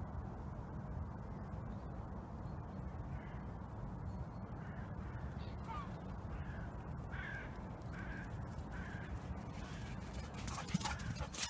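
A series of short, faint bird calls over a steady low rumble; louder scuffing noises start near the end.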